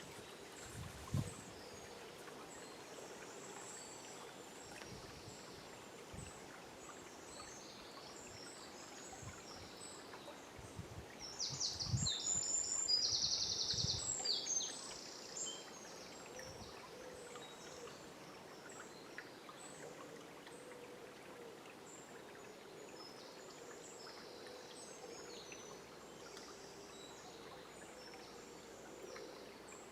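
River water running steadily with birds chirping through a forest dawn chorus. Around the middle, one bird sings a loud, rapid run of high notes for about three seconds. A few soft low knocks come near the start.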